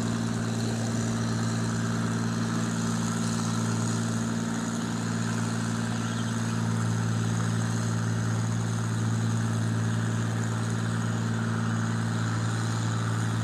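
John Deere 4020 tractor engine running steadily under load as it pulls the weight sled down the track.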